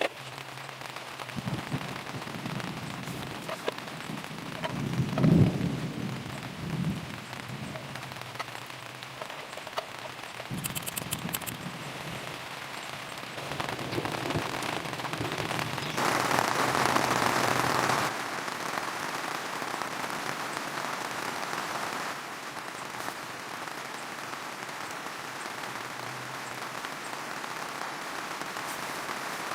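Steady rainfall, with a low rumble about five seconds in and a heavier stretch of rain for a couple of seconds past the middle.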